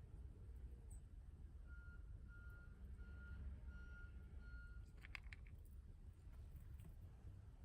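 Faint vehicle reversing alarm: five short, evenly spaced beeps at one pitch, about one every 0.7 seconds, over a low rumble. A brief burst of clicks follows just after the beeps stop.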